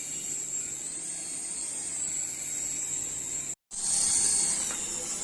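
Mini RC helicopter's small electric motors whining at a high pitch, the pitch rising and falling slightly as the throttle changes. The sound cuts out for a split second about three and a half seconds in, then returns louder.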